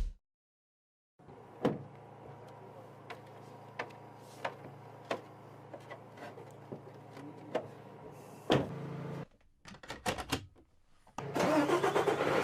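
A low steady hum with scattered sharp clicks, a brief louder burst about two-thirds of the way through, then music coming in near the end.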